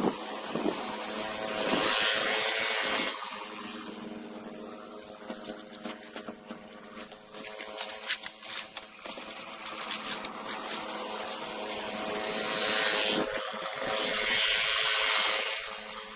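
Small gas snowblower engine, an Ariens, running steadily, with two louder rushing swells, one about two seconds in and one near the end.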